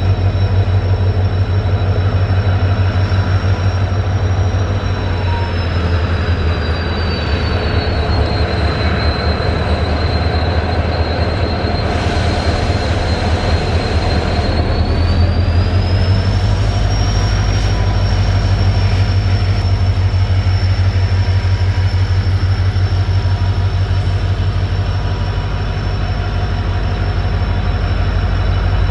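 Indian Railways train running along the track at close range: a loud steady rumble of wheels and rails. A thin high whine slides down in pitch and later rises again. A short hiss comes around the middle.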